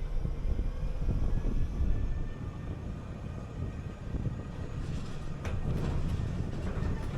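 City bus in motion: low engine and road rumble, louder for the first two seconds and then easing, with a few short rattles in the second half.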